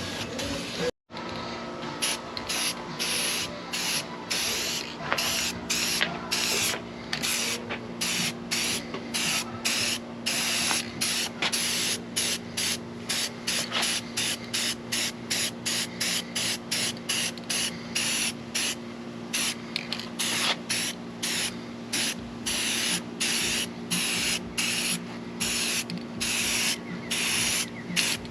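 Spray painting: quick, repeated hissing passes of spray primer or paint on masked wheels, about two to three bursts a second, over a steady low hum.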